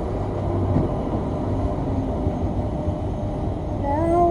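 Light rail tram running, a steady low rumble heard from inside the carriage; near the end a voice begins.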